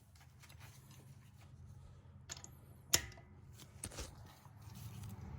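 Scattered clicks and knocks of a socket and wrench being handled and set onto a lug nut, the sharpest about three seconds in, over a low steady hum.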